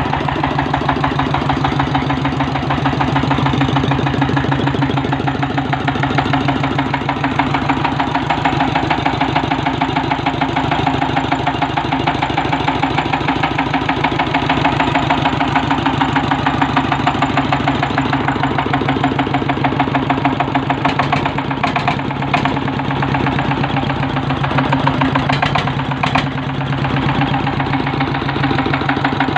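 Golden 1125GD 32 hp diesel engine running steadily with an even, rapid firing beat. A few brief clicks come about two-thirds of the way through.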